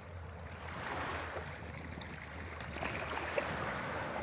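Sea waves washing in swells, with wind on the microphone and one small knock about three and a half seconds in.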